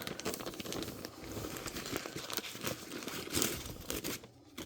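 Plastic Ziploc bag crinkling as it is handled and opened: a dense run of small crackles that stops near the end.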